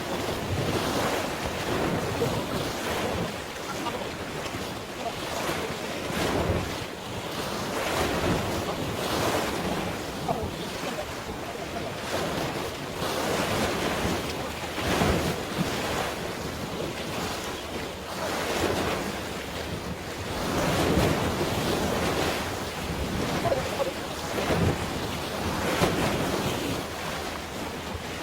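Sea waves washing and splashing in irregular surges every few seconds, with wind buffeting the microphone.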